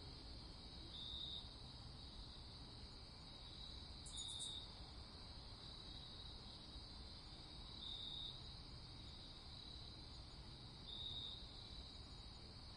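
Crickets trilling steadily at night, faint, with a louder chirp repeating about every three to four seconds over a low background rumble.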